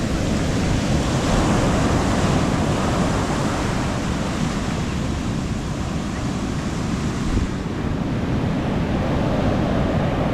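Sea waves breaking and washing up the beach, swelling louder about a second in and again near the end, with a low rumble of wind on the microphone.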